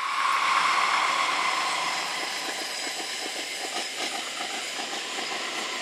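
Passenger train running along the line, a steady noise with a faint rhythm of wheel clicks over the rail joints.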